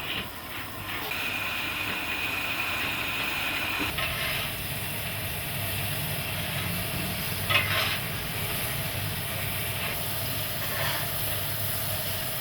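Steam locomotive standing with a steady hiss of steam, a high steady tone held for a few seconds near the start, and a couple of short knocks later on.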